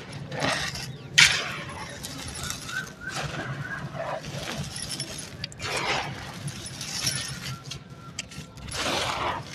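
Dry, stony sand-cement chunks being crushed and crumbled, giving irregular gritty crunches, with one sharp loud crack about a second in.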